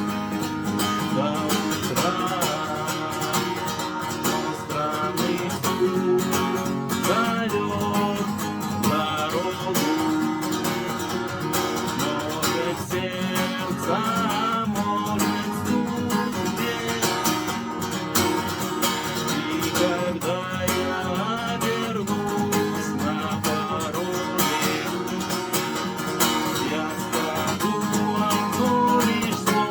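Guitar music: an instrumental passage of a rock song, with chords and melodic lines playing steadily.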